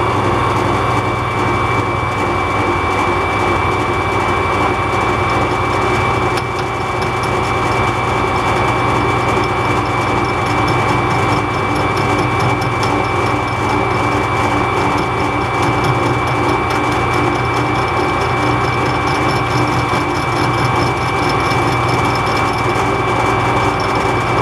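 MAS metal lathe running steadily under power, its motor and gearing giving a constant hum and whine.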